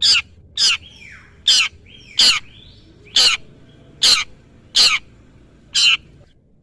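Long-tailed shrike (cendet) calling: a string of eight harsh, short notes, roughly one a second, with fainter sliding whistles between the first few.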